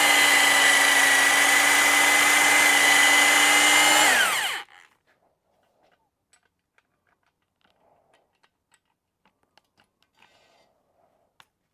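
Electric drill spinning a cylinder hone with abrasive stones in an outboard engine's cylinder bore: a steady whine over a grinding hiss. About four seconds in the drill is released and winds down, and only faint clicks and taps follow.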